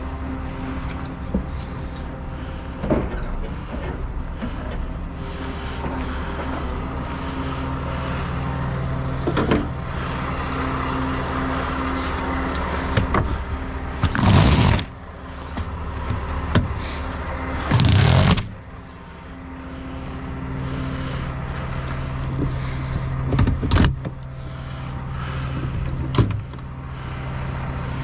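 A heavy truck's diesel engine running steadily, fuller at times, with scattered clicks and knocks. There are two short loud bursts of noise, at about 14 and 18 seconds in.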